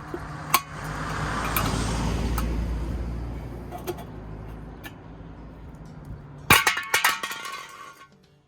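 Rushing noise that swells and fades over a few seconds with a few single clicks, then a burst of sharp metallic clinks and rattles about six and a half seconds in, from work on a jacked-up VW Beetle's rear wheel.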